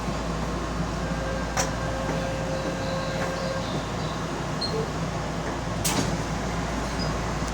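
Keihan commuter train at a station stop: the steady hum of the train with two sharp clicks, about a second and a half in and again about six seconds in.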